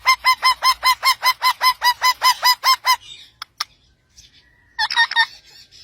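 A pet parrot calling in a fast run of short, identical repeated calls, about five a second, for some three seconds; after two sharp clicks and a pause, it gives three more quick calls near the end.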